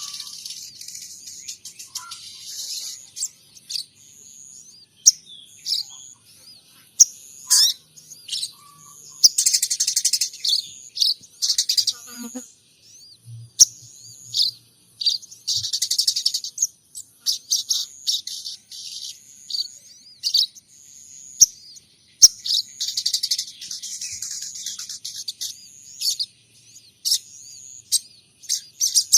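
Small songbird singing a rapid run of high chirps and twitters in short bursts, a sogon trotol mimicking the calls of munias and tree sparrows.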